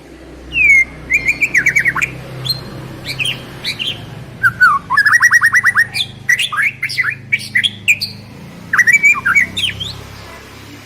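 A songbird singing in loud phrases of quick whistles and chirps, with a fast run of about ten down-slurred notes in the middle. This is a lure song played to get a caged white-rumped shama to sing.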